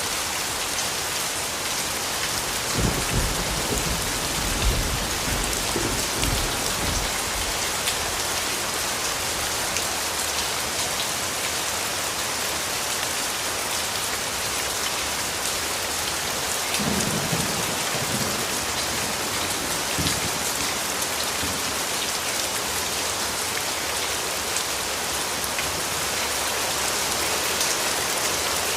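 Steady rainfall pattering, with low rumbles of distant thunder twice: one rolling for a few seconds about three seconds in, and a shorter one past the middle.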